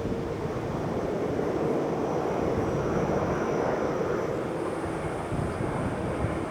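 Jet airliner engines running: a steady rushing noise with a low hum and a thin high whine that jumps higher in pitch about four seconds in.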